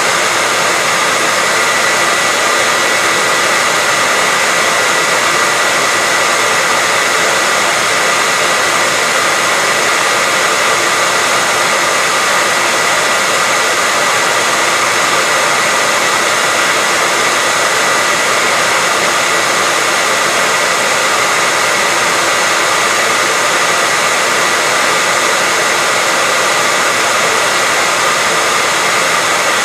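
Hairdryer running steadily: a constant rush of blown air with a steady high whine from its motor and fan.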